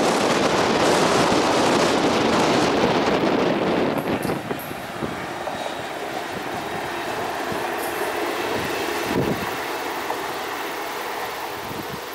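Electric passenger train passing close at speed: a loud rush of wheels on rail, with wind on the microphone. About four seconds in the sound drops abruptly to a quieter, steady rumble of a train running on and slowly fading.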